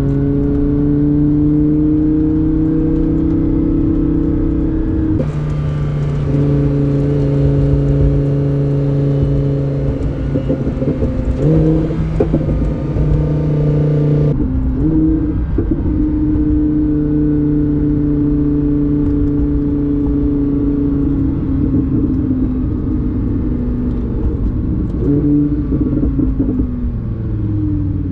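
Twin-turbo V10 engine of a Lamborghini Huracán heard from inside the cabin, running at low speed in a low gear with a steady drone whose pitch drifts gently, then drops near the end as the car slows.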